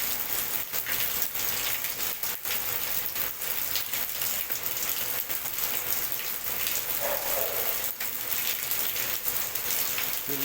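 Water pouring and splashing steadily as floodwater and rain leak in through a window and down a wall into a room.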